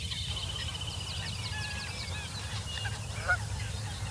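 Waterfowl calling in a wetland: a fast, slightly falling trill of repeated high notes for about two seconds, then scattered calls and a short louder call about three seconds in, over a steady low rumble.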